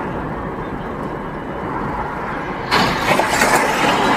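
Steady car road and engine noise, then about two-thirds of the way through a sudden loud crunching, shattering noise lasting over a second: a car collision on dashcam audio.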